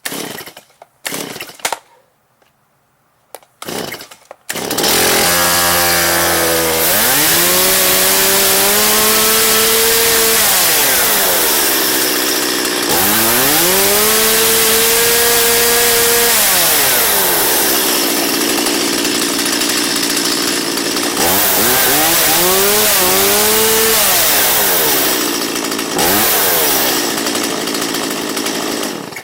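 Stihl MS170 two-stroke chainsaw, sitting unused for a season, getting a few short pulls on the recoil starter, then catching and running about four and a half seconds in. It idles, is revved up and back down three times, and cuts out at the very end.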